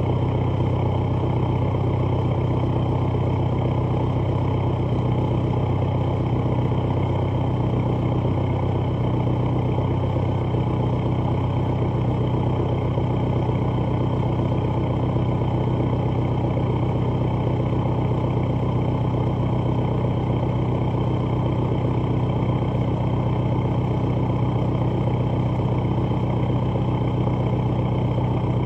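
Volkswagen Jetta Mk5's 1.9 TDI four-cylinder diesel idling steadily after a cold start, heard through a straight-piped exhaust from the cat-back.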